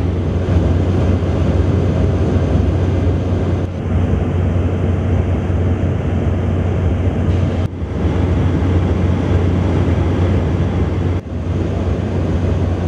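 Steady low engine drone mixed with wind noise, with brief dips about four, eight and eleven seconds in.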